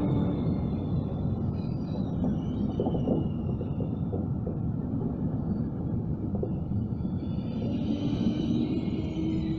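Intercity passenger coaches rolling in along the platform as the train arrives to stop, a steady low rumble of wheels on rail with faint high squeals coming and going over it.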